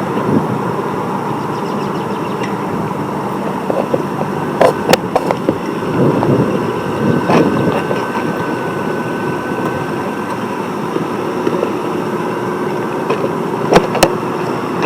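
Steady vehicle running noise, with a few sharp clicks or knocks over it.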